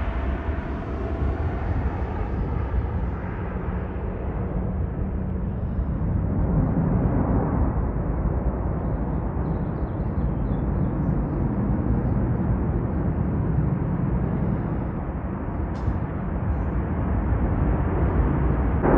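Jet airliner engine noise from a takeoff: a steady low rumble, its higher hiss fading over the first few seconds.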